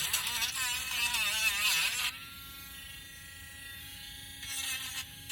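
Small handheld electric sanding tool sanding a basswood carving: a scratchy sanding noise with the motor's pitch wavering under load for about two seconds, then the motor running freely with a steady whine, and sanding again near the end.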